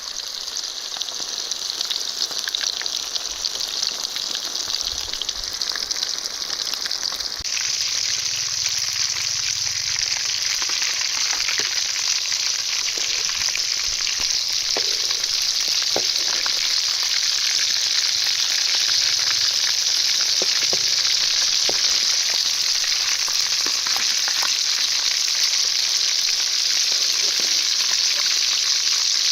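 Food sizzling in hot oil in a cooking pan, with scattered small pops. The sizzle gets suddenly louder about seven seconds in and then holds steady.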